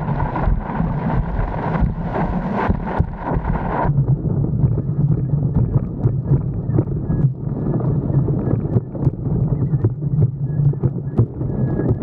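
Wind buffeting an action camera's microphone over the rush of a windsurf board planing across chop, with a quick run of slaps of the hull on the water. The higher hiss drops away suddenly about four seconds in.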